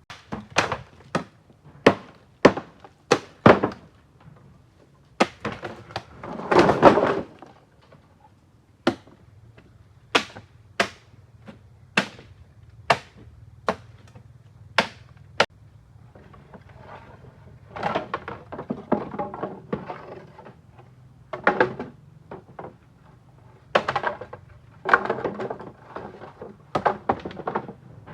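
A run of sharp knocks, about one a second for the first fifteen seconds, with a longer scrape about seven seconds in and bursts of clattering and rustling in the second half.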